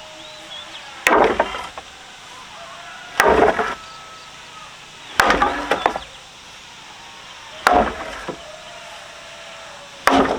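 Chopping: five heavy strokes of a blade into wood, one about every two seconds.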